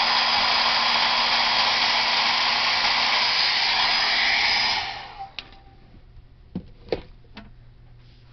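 Handheld blow dryer blowing steadily with a faint high whistle, switched off a little under five seconds in and quickly winding down. A few light clicks and knocks follow.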